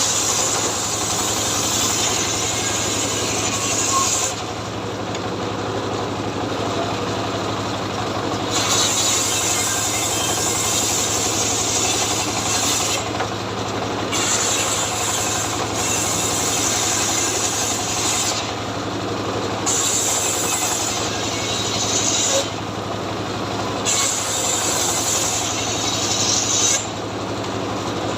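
Chainsaw running steadily and cutting into a tree in repeated spells of a few seconds each. During each spell the chain noise is louder and brighter, and it drops back briefly between cuts.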